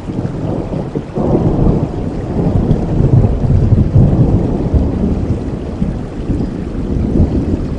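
Rain falling with a long, low rumble of thunder that builds about a second in, peaks in the middle and slowly fades.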